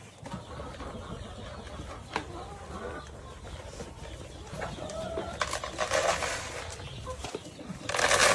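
Chickens clucking in short, scattered calls, with a louder, harsher sound near the end.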